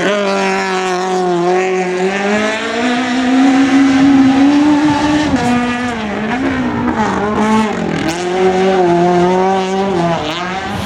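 Citroën AX competition car's engine driven hard, its pitch climbing and falling repeatedly with throttle and gear changes, with a clear drop about five seconds in and another near the end.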